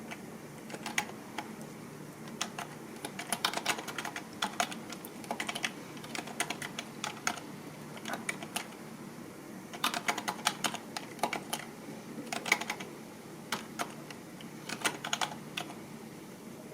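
Typing on a computer keyboard: quick runs of key clicks in bursts, with a pause of about two seconds near the middle and scattered keystrokes near the end, over a low steady hum.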